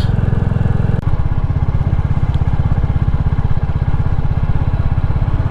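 Royal Enfield Classic 350's single-cylinder engine running steadily under way, a fast, even beat of exhaust pulses.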